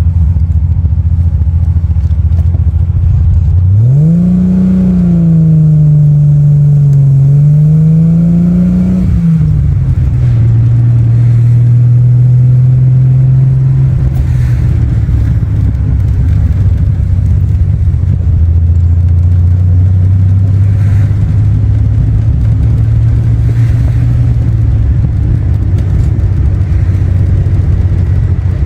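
Triumph TR6 engine pulling on the road. A few seconds in the revs climb sharply and hold high under acceleration, then drop suddenly at a gear change about nine seconds in. After that it settles into a steady cruise, easing lower in pitch later on.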